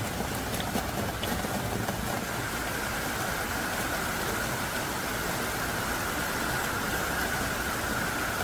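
Heavy rain falling steadily in a hard, thick downpour, an even hiss of rain with a few faint drop ticks early on.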